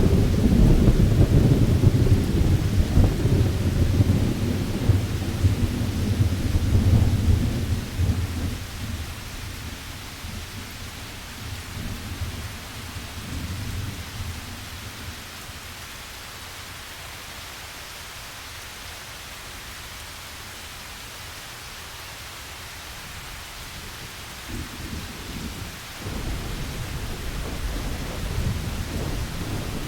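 Thunderstorm: a long roll of thunder that dies away over the first eight seconds, then steady rain, with thunder rumbling in again near the end.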